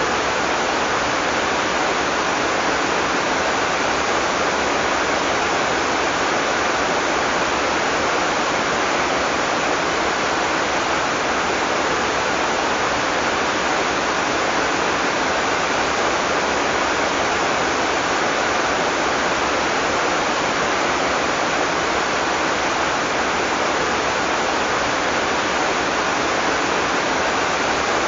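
Heavy tropical rain falling steadily, a dense, even hiss and rush of water with no thunder.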